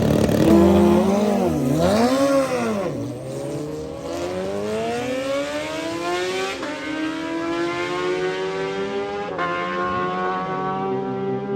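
Drag-racing motorcycles launching off the line and accelerating hard down the strip. The engine pitch wavers as they leave, then climbs steadily through the gears, dropping sharply at an upshift late on.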